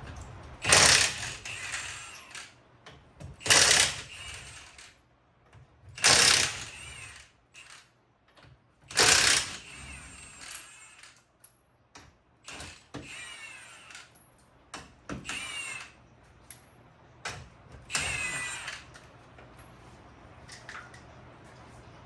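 Four loud bursts of an impact wrench about three seconds apart, spinning off the four lug nuts of a rear wheel, followed by lighter metallic clinks and rings of the loose nuts and parts being handled.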